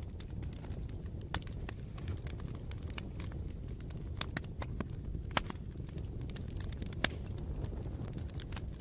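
Wood fire burning, with irregular sharp crackles and pops over a steady low rumble; a few pops stand out louder, about halfway through and again near the end.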